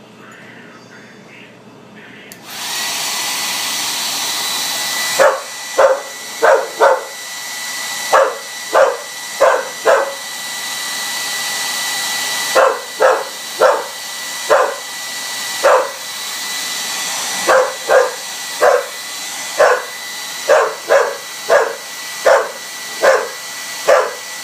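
A Revlon blow dryer switches on about two seconds in and runs with a steady whine. From about five seconds in, a pit bull barks at it over and over in short runs of several barks.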